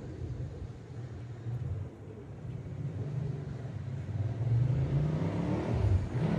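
Ducati 888's desmo V-twin engine running, getting steadily louder toward the end.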